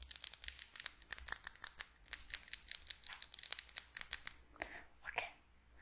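Shaving foam being squished right against a microphone: a dense run of fast crackling, popping clicks that thins out near the end.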